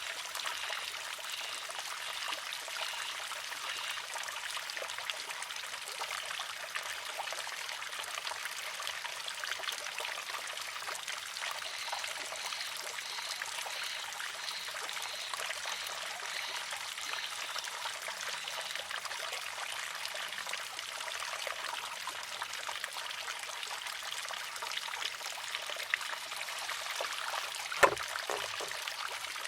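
Water trickling steadily into a wooden shishi-odoshi. Near the end its pivoting arm tips over and strikes the rock once with a sharp wooden clack.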